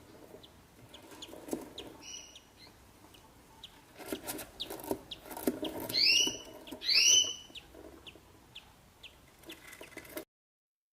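Budgerigars chirping in short, quiet notes, with two louder calls about six and seven seconds in; the sound cuts off suddenly near the end.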